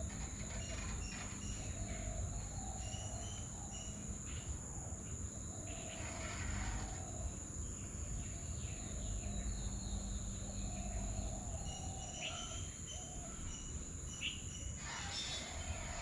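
Outdoor ambience: a steady, high insect drone from crickets, with short bird chirps scattered through it and a low rumble underneath.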